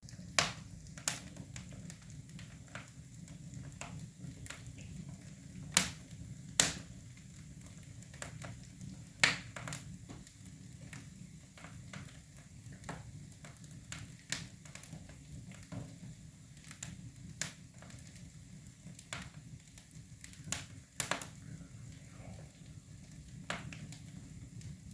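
Wood fire in a fireplace crackling, with sharp irregular pops every second or so and a handful of louder snaps, over a low steady rumble.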